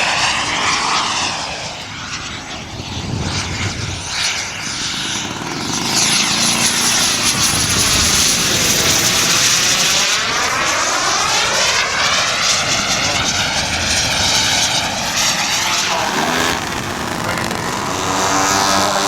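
Radio-controlled model aircraft engine flying past, the sound swelling and sweeping as the plane passes, loudest in the middle. About sixteen seconds in it gives way to a steadier engine note with a clear pitch.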